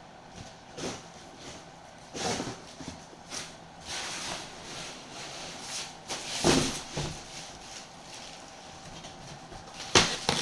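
Irregular knocks and clatter with stretches of rustling, as of objects being handled and set down, with a sharp knock about six and a half seconds in and another near the end.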